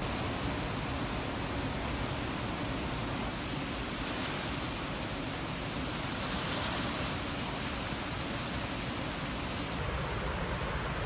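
Steady rush of floodwater pouring through the Remmel Dam spillway during a major controlled release.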